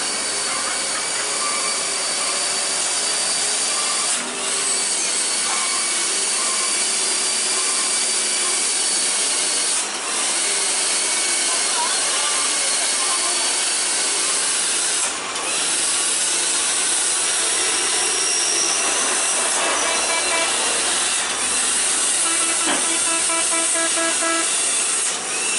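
Heavy rain pouring down steadily, a loud continuous hiss. A short pulsing pitched tone sounds near the end.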